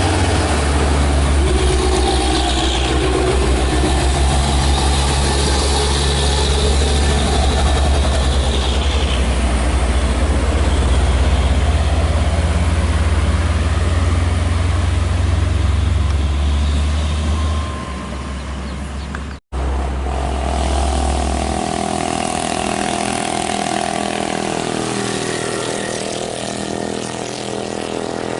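Heavy truck diesel engines labouring under a heavy load at crawling speed, a loud deep steady rumble. About two-thirds through, the sound cuts out for an instant and comes back with a lighter engine note.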